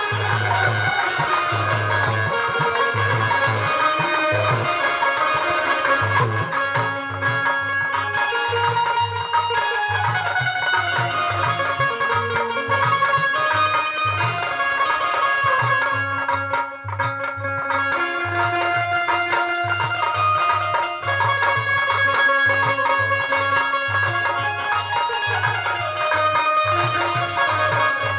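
Indian folk music for a nirgun devotional song: a steady, regular drum beat under melodic lines from stringed and other instruments.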